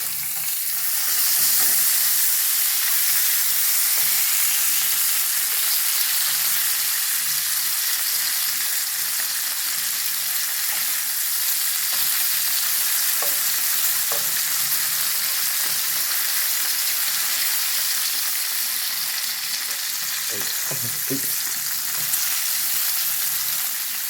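Bacon sizzling in a frying pan: a loud, steady hiss of hot fat that swells over the first couple of seconds and then holds, with a few faint ticks partway through.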